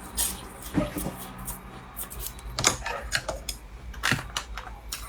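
Close-up chewing of a soft, crumbly black-sesame-filled pastry: irregular small wet clicks and smacks, with two louder ones near the middle and about four seconds in.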